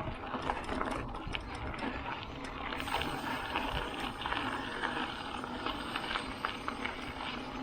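Bicycle riding noise: knobby Continental Race King mountain tyres rolling over a dirt trail, with many small clicks and rattles from the bike.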